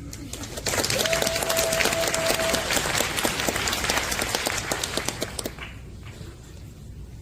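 Audience applauding, starting about a second in and dying away after about five seconds. A brief steady tone sounds over the first part of the clapping.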